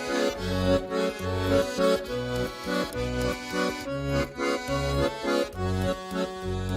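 Instrumental break in a Russian folk-style song: accordion-led band playing sustained chords over a bass line that changes note about twice a second, between sung verses.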